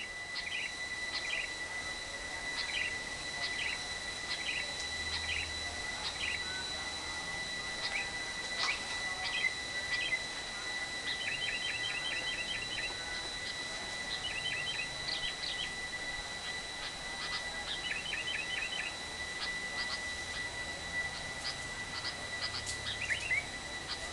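Lovebird calling: sharp high chirps about once a second, then quick chattering runs of several notes in the middle and near the end, the rapid 'ngekek' call used to lure other lovebirds into calling. A steady high tone runs underneath.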